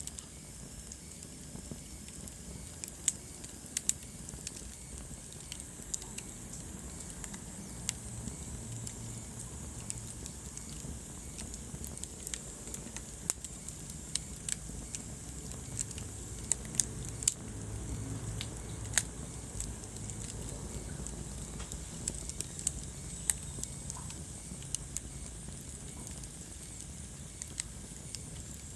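Wood fire burning in a fireplace: a steady low rumble of flames with irregular sharp crackles and pops, several of them louder snaps.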